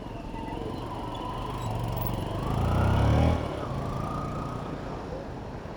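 City road traffic heard from a bicycle, with a motor vehicle's engine passing close: it grows louder to a peak about three seconds in, then drops off suddenly.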